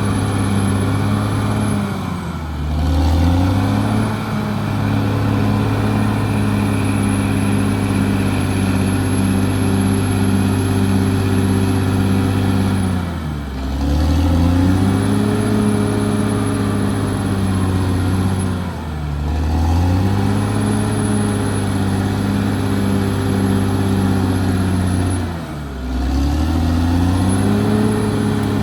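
CAT D6R bulldozer's diesel engine working at high revs. Its pitch sags and climbs back four times, about two, thirteen, nineteen and twenty-five seconds in.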